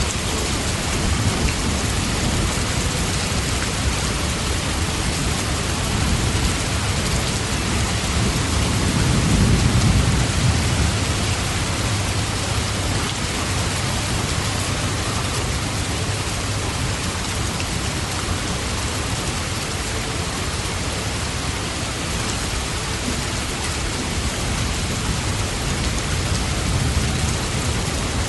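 Steady heavy rain falling. A low rumble swells and fades about a third of the way through.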